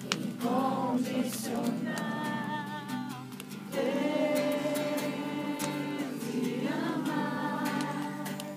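A group of voices singing a Portuguese worship song together in long held notes, largely unaccompanied.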